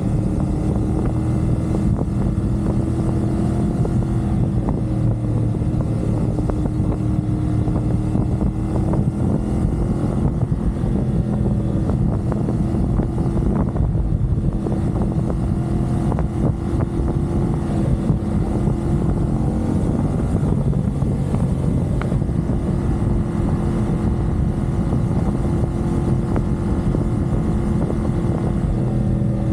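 CFMoto 450SR's parallel-twin engine running at a steady expressway cruise, its pitch holding nearly level, easing briefly about twenty seconds in before settling back.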